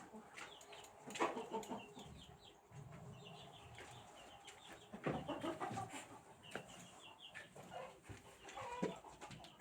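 Chickens clucking in a barn, with many short high chirps and a few knocks and rustles.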